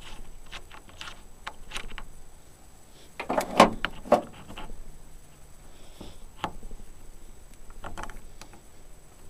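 Scattered clicks and knocks of something being handled, with a louder clatter about three and a half seconds in and another knock just after four seconds; no engine running.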